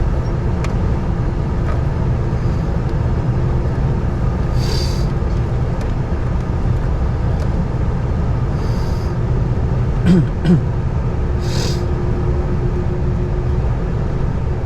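Boeing 747-400 cabin noise while taxiing before takeoff: the engines' steady low rumble with a level drone tone. Three brief hisses and two short blips about ten seconds in.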